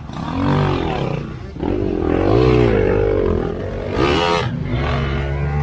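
Off-road vehicle's engine revving up and down repeatedly under heavy load, the pitch rising and falling several times over a low steady drone.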